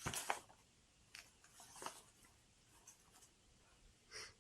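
Near silence with faint rustling and a few soft clicks, and a short soft hiss near the end.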